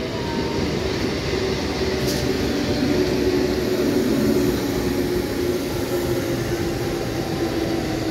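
Eastern Railway EMU local train rolling past the platform: a steady rumble of wheels on track with a low hum from the train running throughout, and a short hiss about two seconds in.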